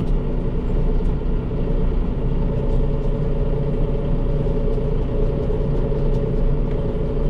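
Diesel engine of a John Deere tractor running steadily under way in high range, with a strong low rumble and a few faint clicks and rattles as the tractor bounces along.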